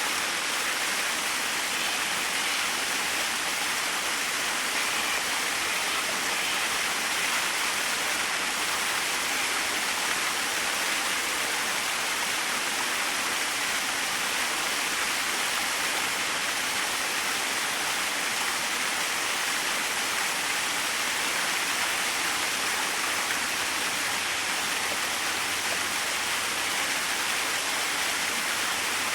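Small waterfall: water falling and splashing in a steady, even rush with no let-up.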